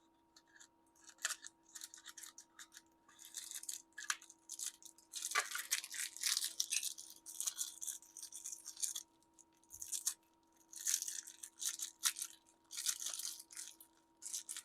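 Scratchy scrubbing noise in irregular bursts of about a second each, with short pauses between them.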